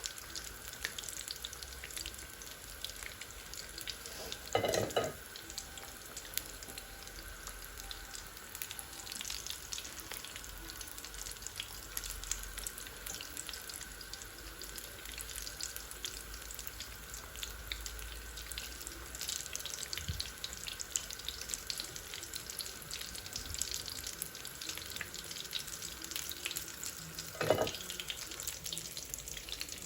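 Aloo chop (battered potato cutlets) sizzling in hot oil in a large pan, a steady fine crackle. Two brief louder clatters stand out, about five seconds in and again near the end.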